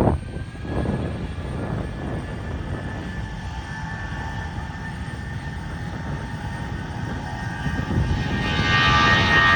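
Airplane engines running for takeoff: a steady rumble and hiss with a faint high whine, growing louder about eight and a half seconds in as several whining tones strengthen.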